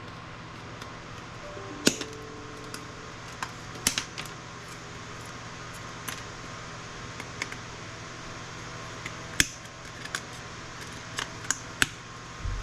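Irregular sharp clicks and clacks of hand tools and small parts as components are pried and pulled off scrap circuit boards, about fifteen in all, over a steady low hum. One clack about two seconds in rings briefly.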